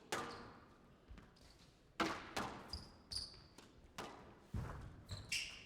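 Squash rally: the ball cracks off rackets and court walls in sharp knocks about every half second to a second, with short shoe squeaks on the court floor.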